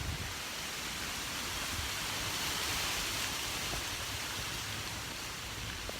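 Steady rushing hiss of strong storm wind, swelling slightly in the middle, with a faint low rumble of wind on the microphone.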